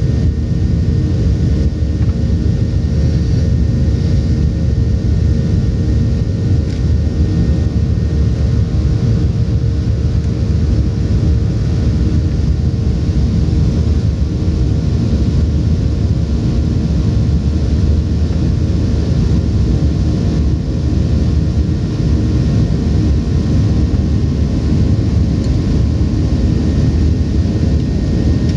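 Boeing 737-800's CFM56-7B engines and airflow heard from inside the passenger cabin: a loud, steady rumble with a faint steady hum of engine tones on top.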